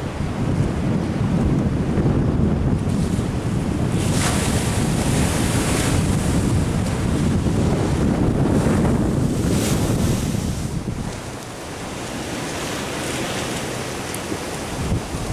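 Ocean surf washing in, with louder rushes of water about four and nine seconds in, under a heavy rumble of wind on the microphone.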